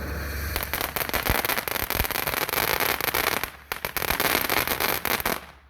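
Consumer firework going off: a steady hiss gives way to a dense run of rapid crackling pops, with a brief lull midway, then stops abruptly near the end.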